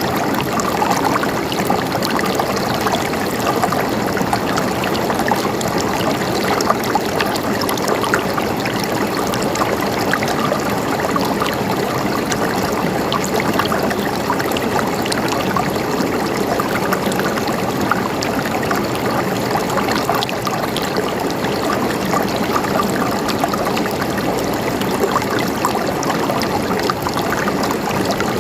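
River water flowing steadily over rocks, a continuous rushing and babbling with small splashes and trickles throughout.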